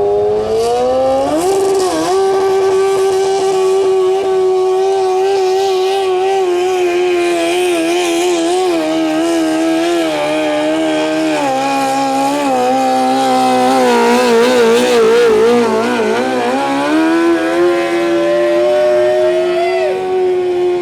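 Modified 1981 Cub Cadet 682 lawn tractor's engine at full throttle pulling a weight-transfer sled. The revs climb in the first second or two and hold steady, then sag and waver in the second half as the drag gets heavy, pick back up, and dip briefly near the end.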